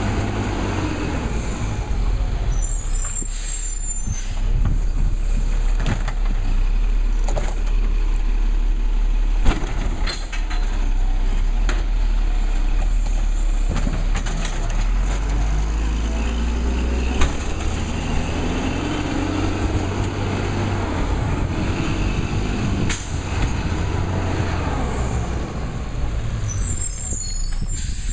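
Labrie Cool Hand garbage truck's diesel engine running, its pitch rising about halfway through as it revs, with a high whine that rises and falls a few times. There are hisses of air brakes and a couple of sharp knocks.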